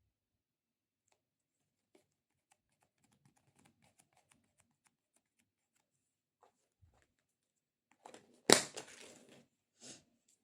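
Sticky squishy stress-relief toy handled close to the microphone: faint light clicks and taps, then a loud sticky crackling peel about two-thirds of the way in that fades over about a second, and a shorter one near the end.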